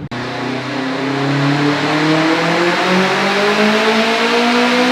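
Turbocharged Subaru STi flat-four engine at full throttle in a chassis dyno pull, revving steadily higher in pitch for about five seconds through the rev range at close to 30 psi of boost.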